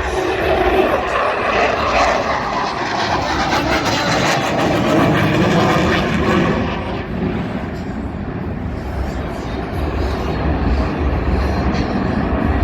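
F-22 Raptor's twin F119 jet engines roaring past. The pitch slides steadily downward over about seven seconds as the jet goes by, then eases into a lower, steady rumble as it moves away.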